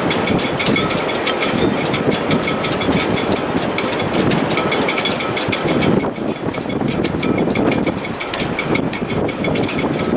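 Strong wind in a sailboat's shrouds and stays in heavy weather: a steady rushing gust noise with rapid, continuous ticking and a faint high whistle that comes and goes.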